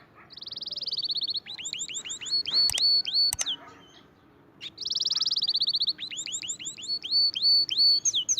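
A songbird singing two phrases, each opening with a fast high trill and going on into a run of repeated sweeping whistled notes, about four a second, with a short pause between the phrases. Two clicks sound in the first phrase.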